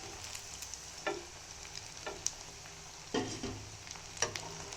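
Vegetable cutlets coated in vermicelli sizzling as they fry in a pan, with a few clicks and scrapes of a utensil against the pan as a cutlet is lifted out.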